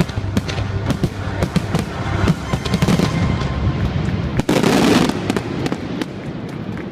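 Fireworks going off in quick succession, many sharp bangs and crackles, with a denser stretch about four and a half seconds in, over a music soundtrack.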